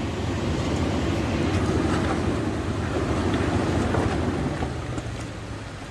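Off-road SUV engine and tyre rumble at crawling speed on a rough dirt trail. It swells through the middle and eases off near the end, with some wind on the microphone.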